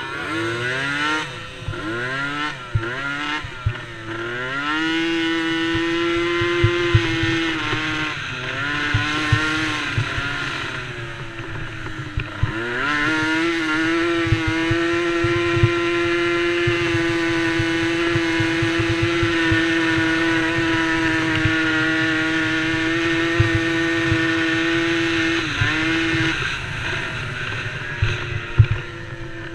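Small 90cc youth ATV engine of a DRR DRX90 racing: revs rise and fall in quick shifts and throttle changes in the first few seconds, then it is held at high revs on a long steady stretch, before dropping briefly and climbing again near the end.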